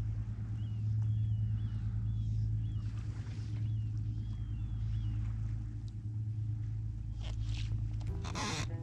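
Boat motor running steadily with a low hum, with faint high chirps of a bird over it in the first few seconds.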